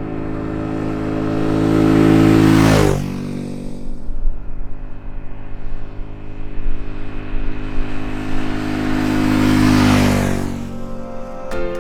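A motorcycle engine passing by twice, once about three seconds in and again near the end. Each pass swells in loudness, then drops sharply in pitch as the bike goes past. The bike is the Yamaha Ténéré 700 with its parallel-twin engine.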